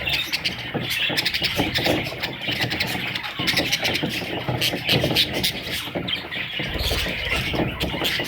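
A flock of budgerigars chattering: a dense, steady stream of overlapping chirps, warbles and short squawks.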